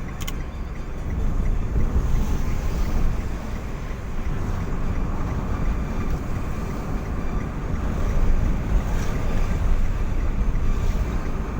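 Steady low rumble of a vehicle on the move, with wind buffeting the microphone that swells and eases irregularly. There is a short click right at the start.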